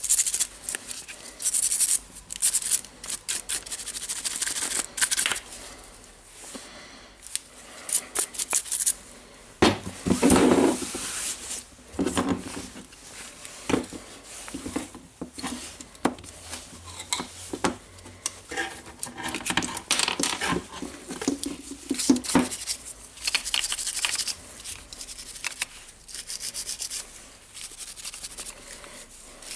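Small brush scrubbing dust off the switch and plastic housing of a Makita DTD146 impact driver: runs of quick rasping strokes with short pauses between them, and a few handling knocks.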